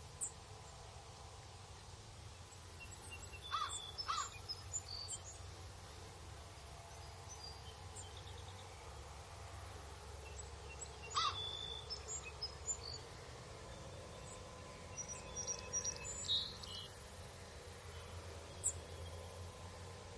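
Wild birds calling in open country: two short harsh calls about three and a half seconds in, another about eleven seconds in, and a scatter of small high chirps, over a steady low rumble of breeze.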